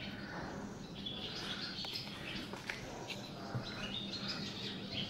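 Small birds chirping and twittering, with many short calls throughout. Under them run a faint steady hum and a few sharp clicks.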